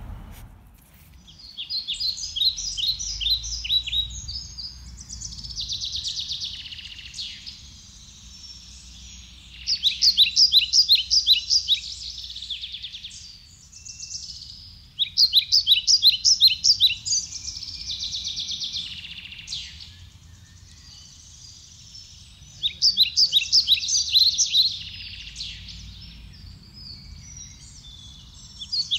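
A songbird singing: phrases of rapid, high chirping trills lasting about three seconds each, coming back every few seconds, over a faint low outdoor rumble.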